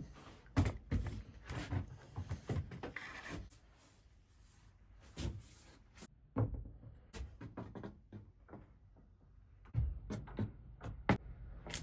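Irregular knocks, clicks and rubbing of hard objects being handled, with the sharpest knocks about half a second, ten and eleven seconds in.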